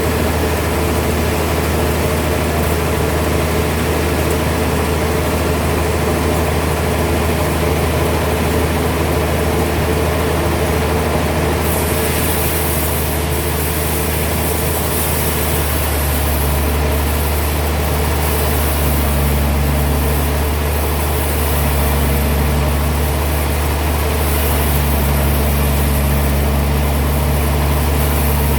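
Heavy sawmill machinery running steadily with a deep, even hum. About twelve seconds in, a high hiss joins it and carries on.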